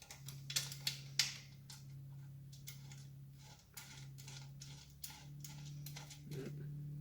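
Small clicks and taps of parts being handled as a bolt is fitted to the exhaust mounting, sharpest in the first second or so and lighter after, over a steady low hum.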